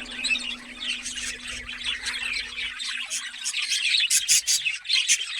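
A brood of nati koli (Indian country chicken) chicks peeping: many high chirps overlapping, getting busier near the end.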